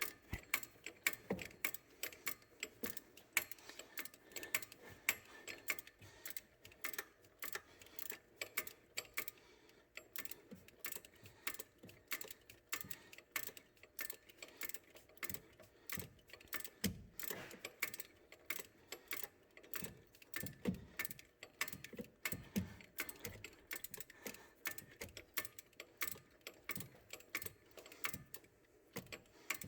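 Ratchet wrench clicking in quick runs of strokes as a long alternator mounting bolt is drawn in, with an occasional duller knock of the tool against the bracket.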